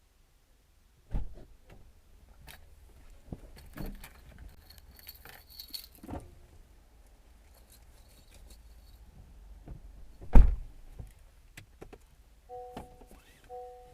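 Keys jangling amid scattered clicks and knocks, with one loud heavy thunk about ten seconds in. Near the end, a two-note electronic beep starts repeating.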